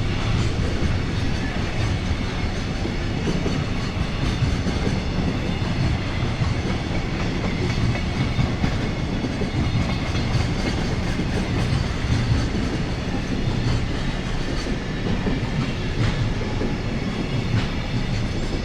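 Freight train wagons rolling past steadily, a continuous rumble of wheels on rail with clacks over the rail joints.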